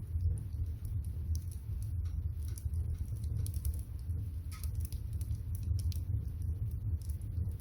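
Wood fire crackling, with scattered sharp pops and ticks over a steady low rumble from the fire and the pot of water heating on it.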